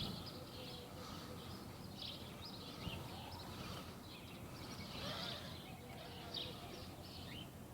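Small birds chirping, many short high calls one after another, over faint steady background noise.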